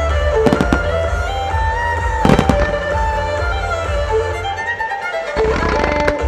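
Starmine fireworks shells bursting over music with a string melody and a heavy bass: a pair of sharp bangs about half a second in, a cluster of bangs around two and a half seconds, and more near the end.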